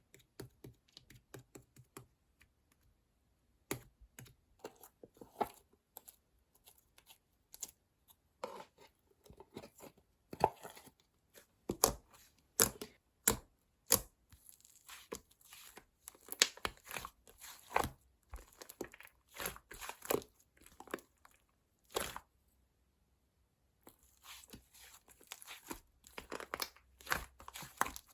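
Close-up crackling and crinkling handling sounds: irregular sharp pops and clicks, sometimes in quick runs, with a brief lull near the end.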